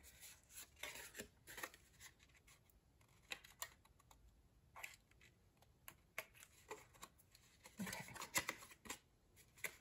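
Faint, scattered small clicks and rustles of cardstock pieces being handled and fitted, with a denser cluster about eight seconds in.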